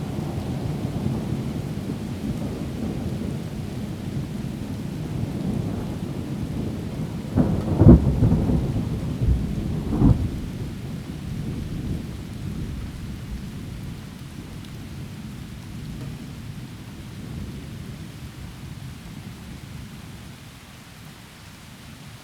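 Thunderstorm in heavy rain: a low, continuous thunder rumble with two sharp cracks about eight and ten seconds in, after which the thunder slowly dies away. Steady rain hiss runs underneath throughout.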